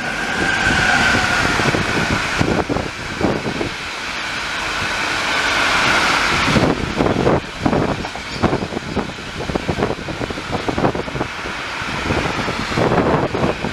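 Long freight train of hopper wagons, headed by two DB Class 189 electric locomotives, rolling past at speed. A steady rush of steel wheels on rail carries a high whine through the first half, then turns into an uneven clatter of wheels over the track.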